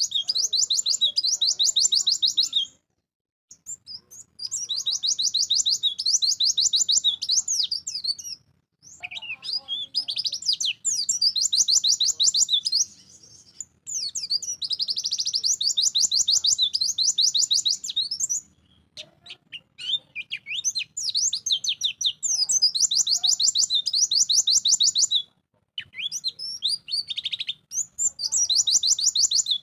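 White-eye (pleci) singing loudly: bursts of rapid, high, chattering trills a few seconds long, repeated over and over with short pauses between them.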